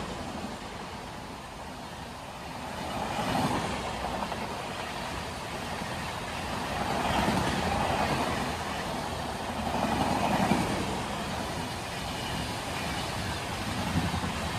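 Express train passing through a station at speed: a steady rush and rumble of wheels on rail that swells and eases several times.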